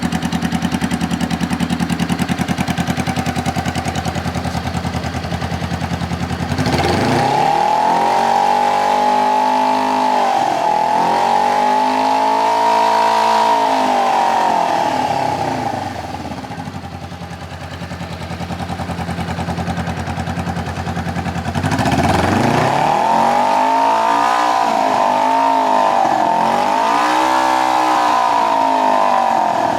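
2013 Honda CB500X's 471 cc parallel-twin engine idling steadily, then revved in repeated blips starting about seven seconds in, settling back to idle, and revved in a second spell of blips from about twenty-two seconds in before dropping back near the end.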